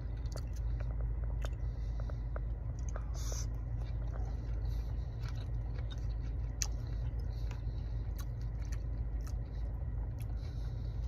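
A person chewing a mouthful of fried rice, with many small wet clicks and smacks, over a steady low hum inside the car.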